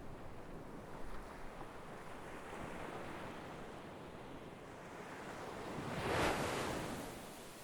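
Sea waves washing in: a steady wash of surf that swells gently, then one wave breaks loudly about six seconds in and fades away.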